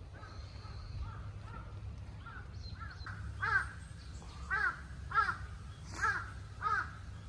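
A crow cawing: a run of short, harsh calls, faint at first, then five louder caws in quick succession in the second half.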